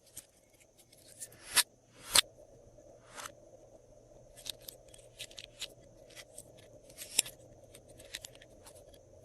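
Glossy slime being worked by hand, giving irregular sticky clicks and small pops, the two loudest about a second and a half and two seconds in.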